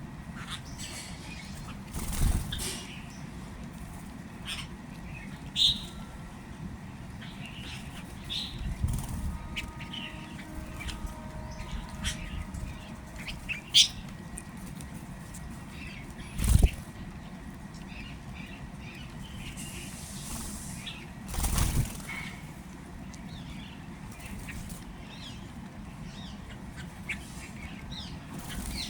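Small birds chirping now and then, with several short loud rustling bursts in between, the loudest about sixteen seconds in.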